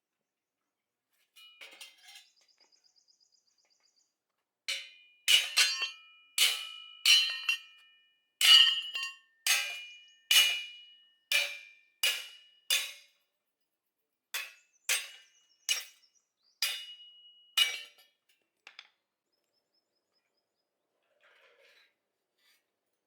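A run of about twenty hammer blows on steel, each ringing briefly, coming roughly one a second with a short pause midway, after a few light clinks.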